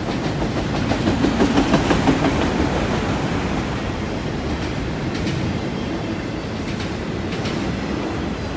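Train cars rolling past, steel wheels clacking over the track, with a louder quick run of clacks about a second in, then a steady rumble.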